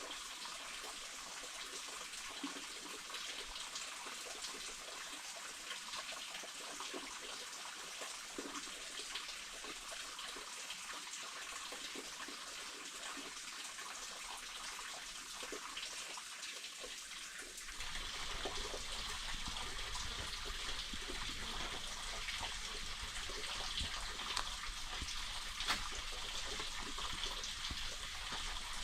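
Running water with a steady rushing hiss, becoming louder and fuller abruptly about eighteen seconds in.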